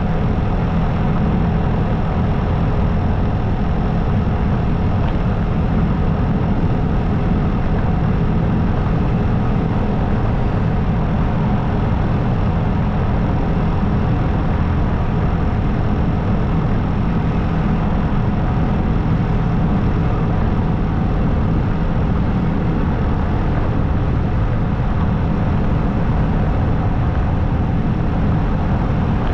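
Motorcycle engine running steadily while riding, a constant drone that holds one speed with no revving or gear changes.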